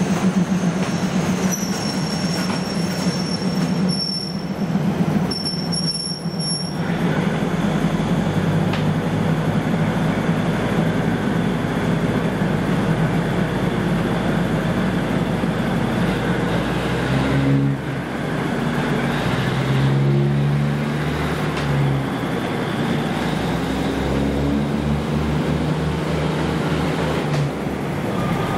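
A train of 1983-built THN diesel railcars rolling slowly past, with a low engine drone and steel wheels squealing thinly on the curving track for the first few seconds. The drone shifts in pitch in steps during the second half as later cars go by.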